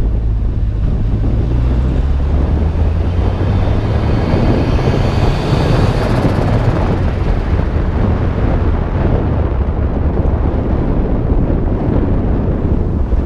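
Turbocharged Nissan GA16DET 1.6-litre four-cylinder engine running while the car cruises, with heavy wind noise on the microphone. A faint high whine rises and fades in the middle.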